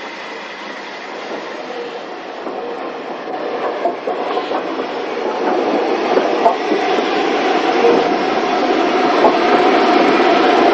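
A steam-hauled train running, its noise growing steadily louder as it draws near.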